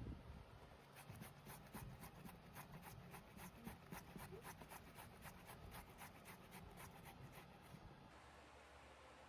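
Faint rapid, regular scraping strokes, about five a second, that stop about eight seconds in.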